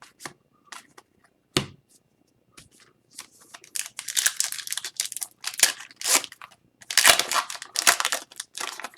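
A few light clicks of cards being handled, then a hockey card pack's wrapper being torn open and crinkled, in rustling bursts from about three seconds in.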